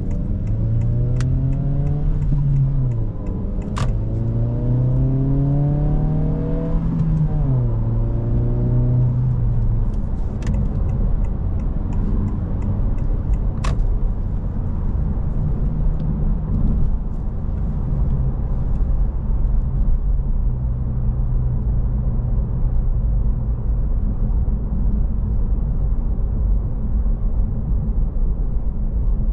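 2025 Honda Civic Si's 1.5-litre turbocharged four-cylinder accelerating through the gears of its manual gearbox: the engine note rises, drops at an upshift about two and a half seconds in, rises again and drops at a second shift about seven seconds in. It then settles to a steady cruise over low road rumble, with a few sharp clicks in the first fifteen seconds.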